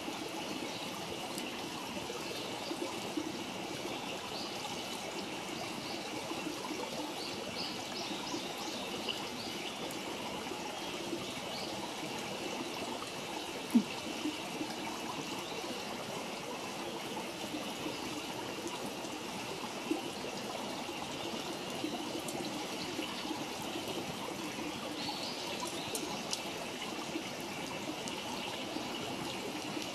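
Wood campfire burning, with a steady rushing sound like running water throughout. One sharp loud pop comes about fourteen seconds in and a fainter crack about six seconds later.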